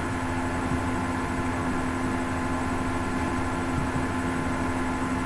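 Hoover Ecologic 800 automatic washing machine running, its motor giving a steady hum over a low rumble.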